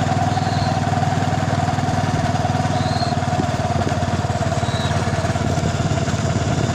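A vehicle's engine running steadily while on the move, with a few faint short high chirps over it.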